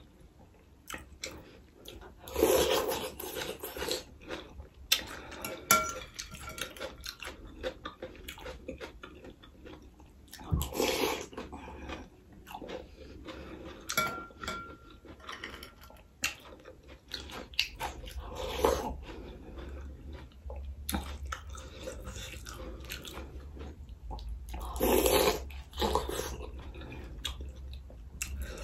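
Close-miked eating: chewing and biting on spoonfuls of chana and nimki soup, with short clicks of a spoon and fork against the bowl and a few louder mouthfuls.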